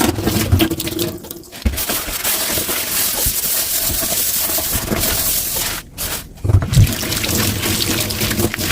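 Kitchen tap running into a sink while dishes are washed, the stream broken off briefly twice, with a few dull knocks of dishes.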